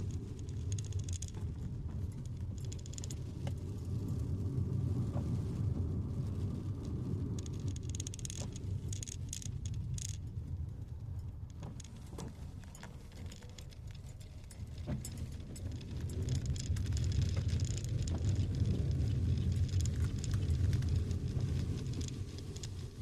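A car moving through heavy rain: a steady low rumble of engine and road, with scattered ticking and patter of raindrops over it. The rumble grows louder for a few seconds after the middle.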